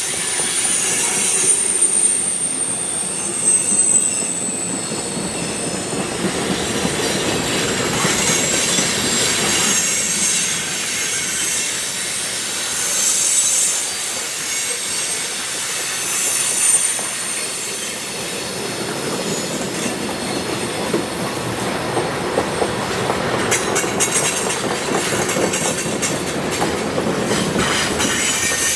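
Cars of a CSX manifest freight train rolling past at steady volume, with the clatter of wheels over rail joints. A thin, high wheel squeal comes and goes, strongest in the first few seconds.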